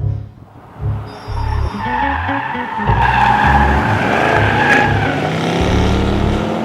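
Range Rover Sport's 5.0-litre supercharged V8 being driven hard, its engine note rising and falling, while the tyres squeal for a few seconds from about two seconds in.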